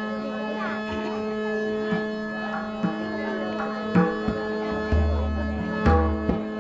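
Instrumental interlude of a Marathi bhajan: a harmonium holds a steady chord while tabla strokes come in, sparse at first, with deep bass strokes joining from about five seconds in.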